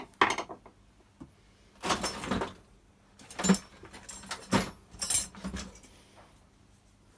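Clinks, rattles and scrapes of small parts and hand tools being handled, in five or six short clusters with quiet between.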